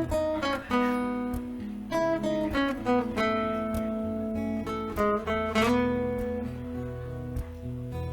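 Acoustic guitar music, an instrumental with plucked notes and strummed chords ringing on.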